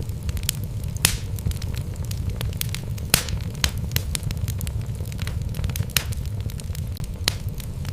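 Wood fire burning in a fireplace: a steady low rumble of the flames with irregular sharp crackles and pops from the burning logs, a louder pop about a second in and another about three seconds in.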